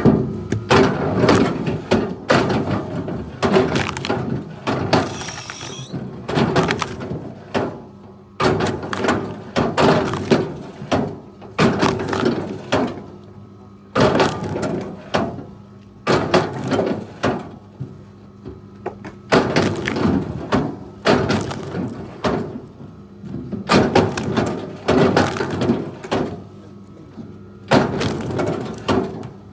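Heavy machine's engine running steadily under a series of loud cracks and crashes of breaking wood, one every second or two.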